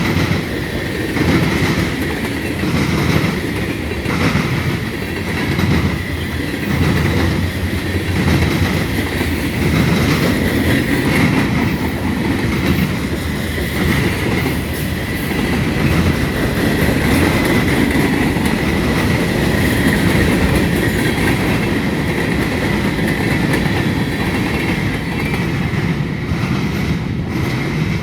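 Freight train cars rolling past at low speed, wheels clacking over rail joints about once a second, over a steady rumble and a continuous high-pitched whine from the wheels.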